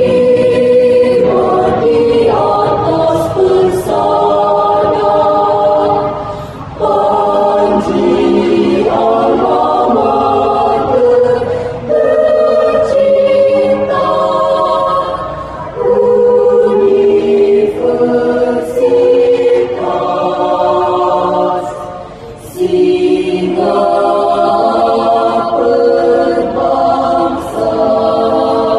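A choir singing in several parts. The voices hold sustained chords in phrases, with a brief dip between phrases every few seconds.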